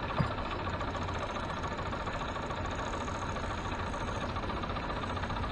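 Boat motor idling steadily, a low even hum.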